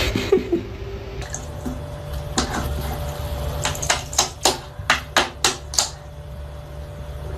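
An irregular run of about ten sharp clicks or taps over a low steady hum, coming thickest in the middle of the stretch.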